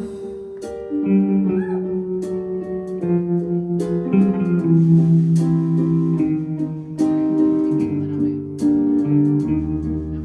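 Guitar playing a slow passage of ringing plucked notes and chords.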